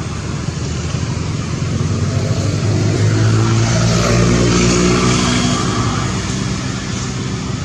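A motor vehicle passing by. Its engine sound swells to a peak about halfway through and then fades, the pitch dropping slightly as it goes past.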